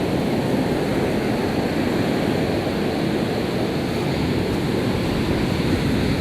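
Sea surf washing steadily on the shore, with wind blowing on the microphone.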